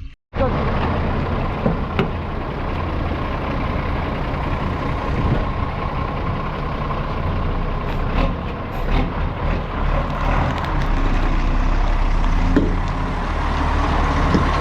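A machine running steadily, with a low rumble and a constant whine, and a few short knocks over it.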